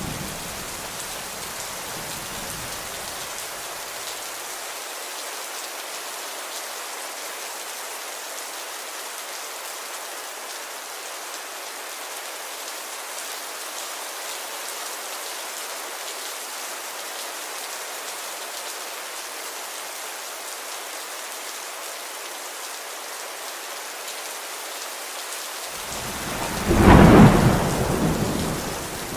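Steady rain falling. A low rumble of thunder fades out in the first few seconds, and a loud thunderclap rolls in near the end, dying away over about two seconds.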